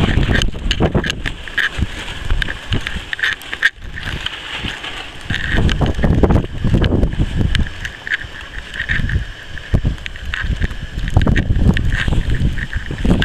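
Blizzard wind buffeting the microphone in uneven gusts, with a steady higher hiss underneath.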